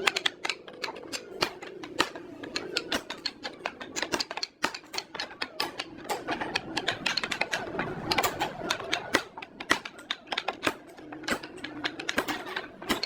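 Rapid, irregular clicking and tapping, several sharp taps a second, over a faint hum.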